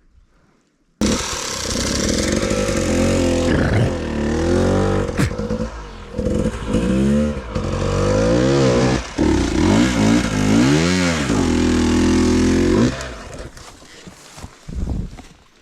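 Off-road trail motorcycle engine revving, its pitch rising and falling again and again under hard throttle. It starts abruptly about a second in and dies away near the end.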